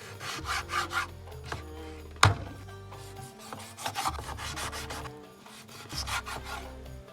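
Rhythmic rasping, scraping strokes of hand work in the kitchen, in quick runs, with one sharp knock about two seconds in. Soft background music plays underneath.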